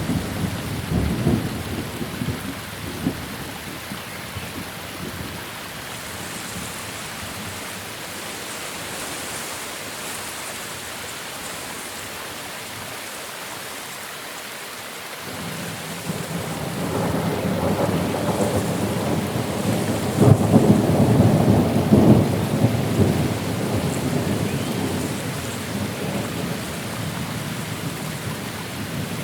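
Thunderstorm: steady rain with rolling thunder. One rumble dies away in the first few seconds, and another builds about halfway through, peaks about two-thirds of the way in, then slowly fades under the rain.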